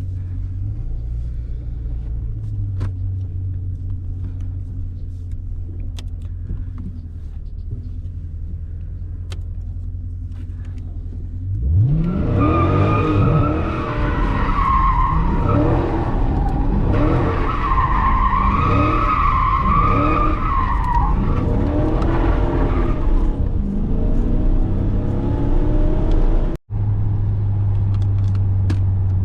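2018 Dodge Challenger Scat Pack's 6.4-litre 392 HEMI V8 running at a steady low rumble. About eleven seconds in it suddenly revs hard, its pitch rising and falling again and again, as the tyres squeal in a wavering wail, typical of a donut or burnout with traction control off. Near the end it settles back to a steady rumble.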